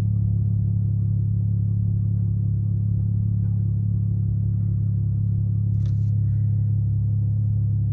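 Car engine idling: a steady, even low hum that does not change. There is a brief click about six seconds in.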